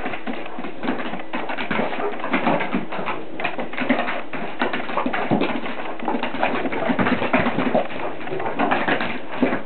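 Small dogs growling and grumbling in play as they tussle with plush slippers, with constant irregular scuffling.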